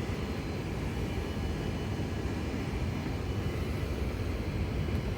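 Steady low rumble of background noise in a Boeing 747-400 cockpit, with faint steady high-pitched tones above it.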